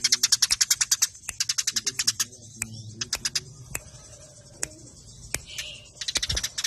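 Eurasian tree sparrows chirping in fast, dense runs of short sharp notes, the rapid chatter of sparrows fighting. The runs break off after about three seconds, leaving a few scattered chirps before the chatter starts up again at the end.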